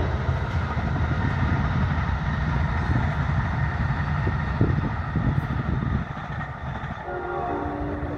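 Train passing with a steady low rumble that eases off after about six seconds. Its horn sounds again, a held multi-note chord, near the end.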